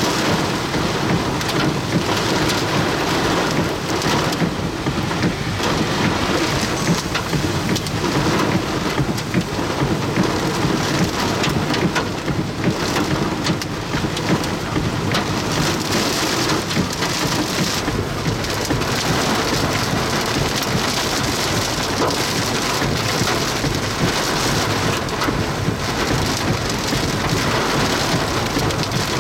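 Heavy thunderstorm rain falling hard: a loud, steady, dense patter with many sharp individual hits all through.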